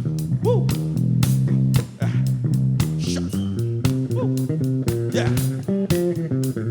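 Live funk band music: a bass guitar groove stepping between low notes over steady drum hits, with guitar in the mix.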